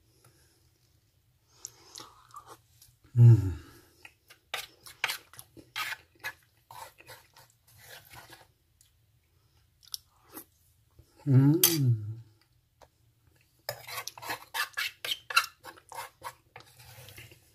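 A person chewing close to the microphone, with wet smacks and clicks, while a plastic spoon scrapes and taps a stainless steel tray. Two short low hums of enjoyment stand out, about 3 seconds in and again about 11 seconds in.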